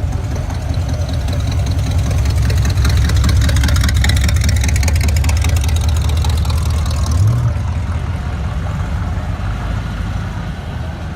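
Car engine and exhaust rumbling loudly close by, building over the first few seconds. It gives a short rev about seven seconds in, then eases off to a lower, steadier run.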